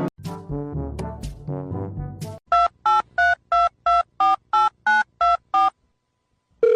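A short musical phrase, then about ten telephone keypad tones dialed in quick succession, each a short two-note beep. After a brief pause, a steady telephone tone comes on near the end.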